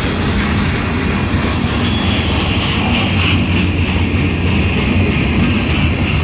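Freight cars rolling past on the rails: a loud, steady rumble of wheels and cars going by.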